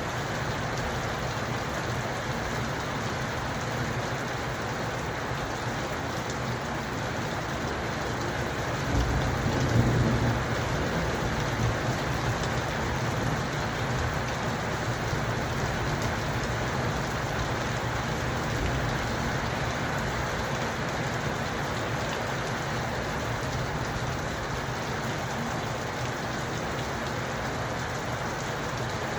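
Steady rain falling. About nine seconds in, a low rumble of thunder swells and dies away over a few seconds.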